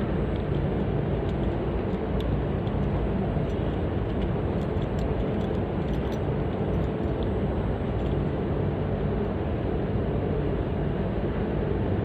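Split air conditioner's outdoor unit running steadily during a pump-down, its compressor and condenser fan giving a continuous low hum, with a few faint ticks.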